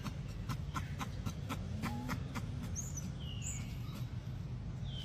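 A run of sharp clicks, about three to four a second, stops about two seconds in. A few short, high animal chirps follow, some gliding downward, over a steady low rumble.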